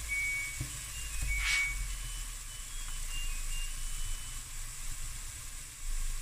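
Diced carrots, onion and green pepper sizzling in a stainless steel pot, a steady hiss with a short louder hiss about a second and a half in. A string of thin, high whistled notes runs through the first few seconds.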